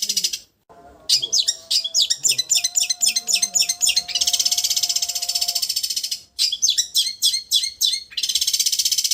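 Long-tailed shrike (cendet) singing a fast, high, vibrating trill mixed with quick chattering notes, in the 'raja getar' trill style used as training song for cage birds. The song breaks off abruptly about half a second in and again just after six seconds, then resumes.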